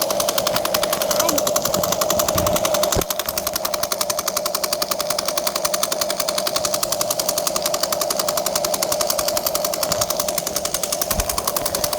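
Huina remote-control toy excavator running, with a fast, even rattle over a steady whine.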